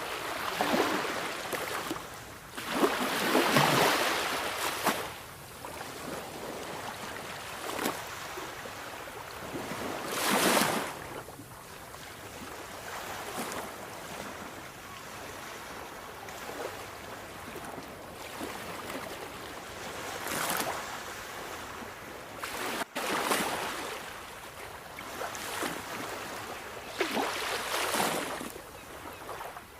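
Sea waves breaking and washing on a shore: a steady rush of surf with separate waves surging in every few seconds, the loudest about three seconds in.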